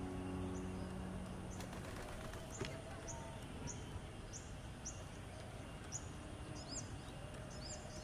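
A small bird calling a regular run of short, high chirps, about two a second, over faint steady outdoor noise. The tail of background music dies away in the first second or two.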